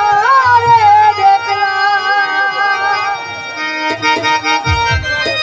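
Music: an electronic keyboard plays a melody with pitch bends and vibrato over a low bass-and-drum beat, the instrumental lead-in to a Bengali song. A short low sweep falls about five seconds in.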